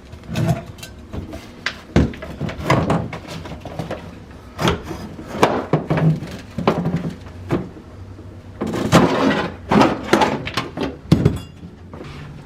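Irregular knocks, clanks and thuds of demolition work: interior fittings of a coach bus being pried and pulled loose by hand.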